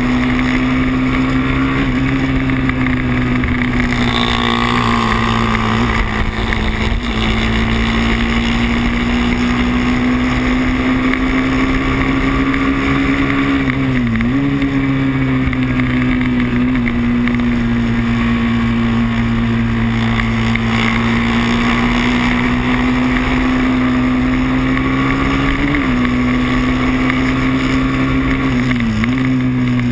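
Moto3 race motorcycle's engine running at high revs under racing load, heard from onboard. The engine note holds steady, dipping briefly and recovering about halfway through and again near the end.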